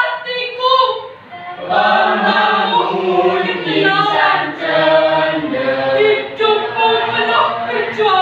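Junior high school choir singing together. There is a short dip about a second in, then a fuller phrase in which lower voices join.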